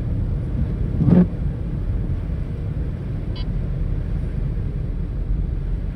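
Car driving, heard from inside the cabin: a steady low road and engine rumble, with a brief louder thump about a second in and a short high beep near the middle.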